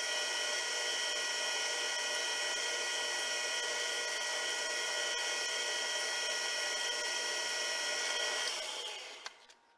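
Electric machine-tool motor running at a steady high-pitched whine, then winding down and stopping about nine seconds in.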